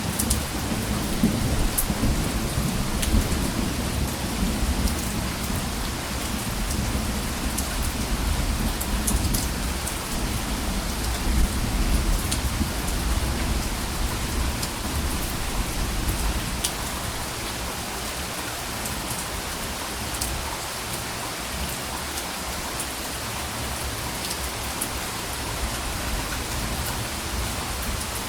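Steady rain falling, with scattered drops ticking, and a low, soft roll of thunder that fades away over the first half.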